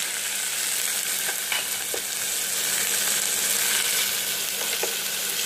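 Drained, boiled young figs sizzling in hot oil with a mustard seed, cumin and dal tempering: a steady frying hiss with a few faint crackles.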